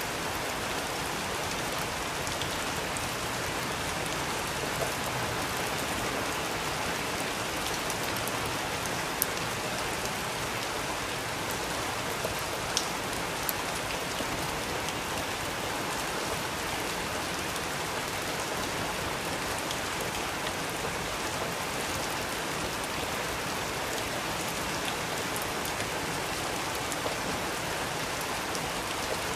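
Steady rain falling, an even hiss, with a few sharp ticks scattered irregularly through it.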